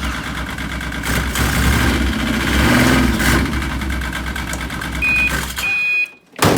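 An engine running steadily with a deep low rumble, cutting off about six seconds in. A brief high tone sounds shortly before the cutoff, and a sharp loud sound follows just before the end.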